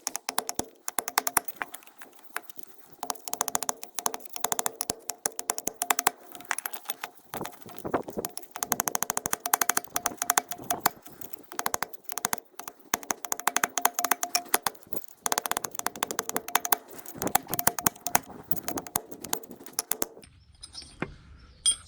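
Hammer blows striking an old, worn wheel bearing used as a driver to knock a new FAG bearing into the Mercedes CLK W208 front wheel hub. The metal strikes come in rapid runs of many blows a second, with a few short pauses, and the steel rings after each blow.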